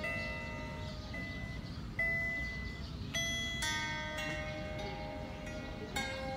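Small wooden lyre harp picked out slowly one string at a time, each plucked note ringing and fading, with a gap of about two seconds between some notes.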